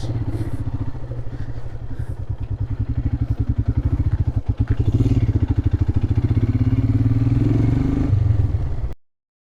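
Royal Enfield Himalayan's single-cylinder engine running on the move, a steady pulsing beat that grows louder a few seconds in, then cuts off abruptly near the end.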